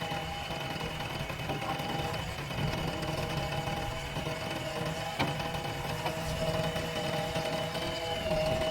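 JCB backhoe loader's diesel engine running steadily with a fast mechanical clatter and a steady high whine over it, with one sharp knock about five seconds in.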